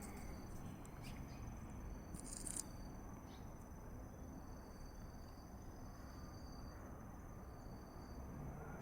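Crickets trilling steadily in the background, one thin high tone held throughout with fainter trills coming and going, and a brief crunching hiss about two seconds in.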